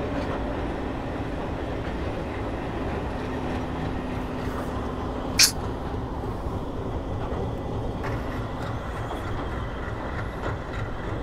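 Passenger train running over a long rail bridge across the sea, a steady rumble of wheels and coaches, with one sharp click about five seconds in.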